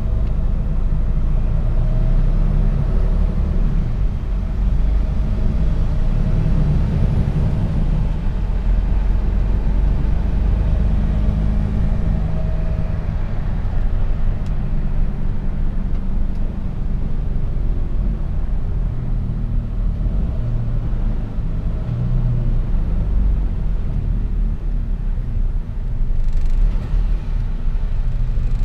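Mercedes-Benz Actros truck driving, its engine and road noise a steady low rumble heard inside the cab. A brief hiss comes near the end.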